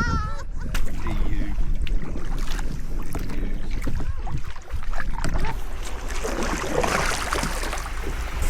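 Canoe on open water: wind buffeting the microphone as a low rumble, with scattered knocks and splashes of paddling, and a louder burst of splashing about seven seconds in.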